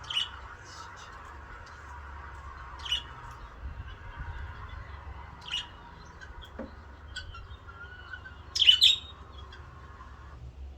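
Garden bird calling: four short, sharp chirps spaced about three seconds apart, the last one the loudest, over a steady faint background hiss and low rumble.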